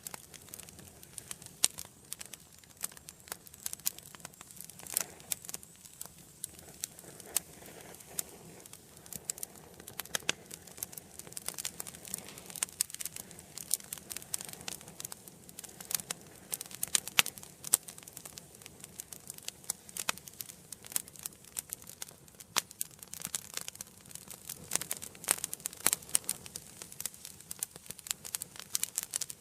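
Wood fire in an indoor fireplace crackling: frequent irregular sharp pops and snaps over a faint steady hiss of the burning logs.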